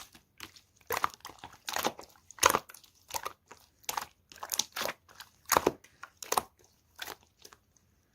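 Pink clear slime being squished and pressed by hand, giving irregular crackly, squelching pops about two a second, which stop shortly before the end.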